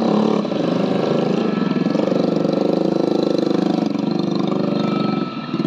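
Combine harvester engine running steadily with a fast, even pulse, dipping briefly in loudness near the end.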